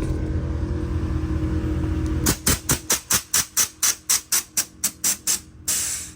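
Cadillac V8 with a newly fitted, quieter exhaust idling with a steady low hum. About two seconds in, a quick run of short, even hissing bursts starts, roughly four a second. It ends in a longer hiss that cuts off suddenly.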